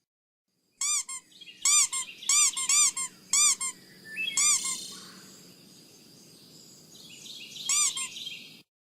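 A bird chirping: a quick run of short squeaky chirps, each rising and falling in pitch, then one more chirp near the end, over faint outdoor background noise.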